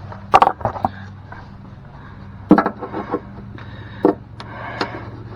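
Step-rail mounting brackets and hardware being handled and set down: several sharp knocks and clatters, in a cluster about half a second in, another around the middle, and single knocks near the end, over a steady low hum.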